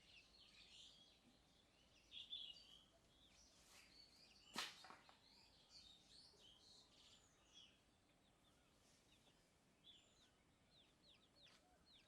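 Faint chirping and twittering of many small birds: short rising and falling calls overlapping one another, with a single sharp click about four and a half seconds in.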